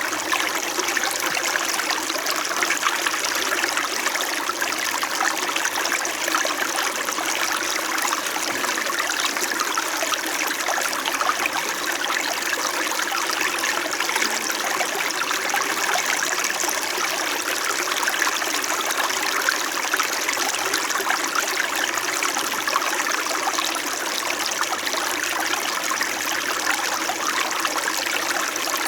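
Small mountain stream flowing and babbling steadily over rocks.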